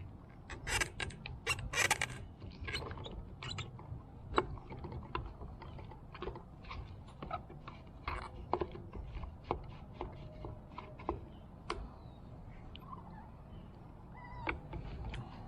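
Fuel pump assembly being handled and worked apart: irregular clicks, taps and short scrapes of its parts and tabs, busiest in the first two seconds.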